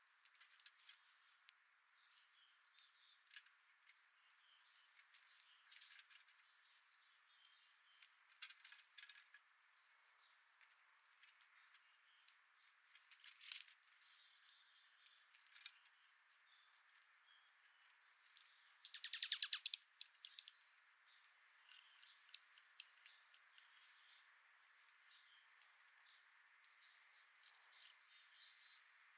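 Faint small songbirds at a feeder: scattered short high chirps and light clicks. About two-thirds of the way through comes one louder rapid trill of evenly spaced notes lasting a second or two.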